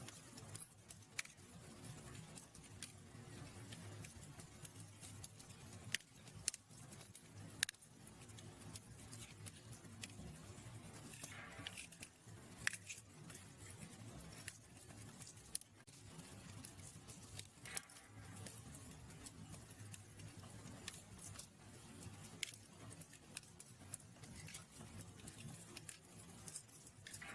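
Fireplace fire crackling, with frequent sharp, irregular pops over a low steady rumble of the flames.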